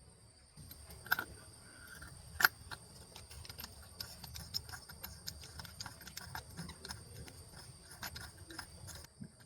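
Small metal clicks and clinks of hand tools and parts being handled, with a sharper click about two and a half seconds in.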